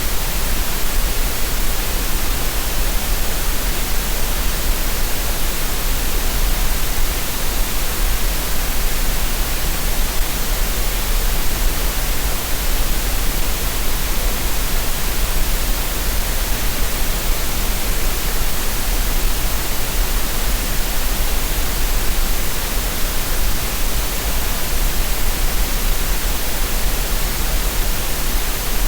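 Steady synthetic green noise: an even hiss over a strong low rumble, with no change.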